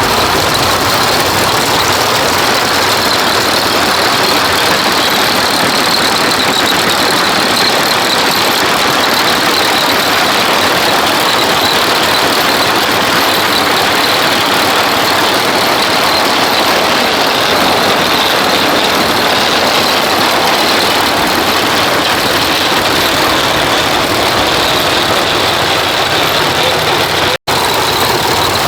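Old-style peanut thresher running steadily under power: a loud, even mechanical clatter and hum, with a brief break in the sound near the end.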